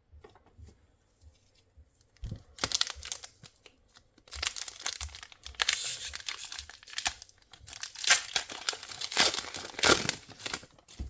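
Foil wrapper of a Pokémon card booster pack crinkling and tearing as it is ripped open, in irregular bursts that begin about two seconds in.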